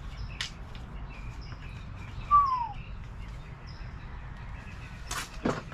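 Birds calling: a single clear whistled note sliding down in pitch about two seconds in, with small high chirps repeating through it. A few sharp clicks near the start and near the end, over a steady low outdoor rumble.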